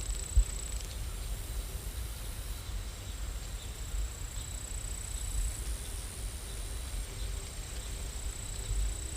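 Steady rain ambience with a thin, high-pitched whine that comes and goes, and a single low thump about half a second in.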